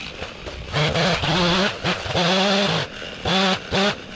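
Chainsaw revved in bursts: a run of about a second, then shorter ones, ending with two quick blips of the throttle.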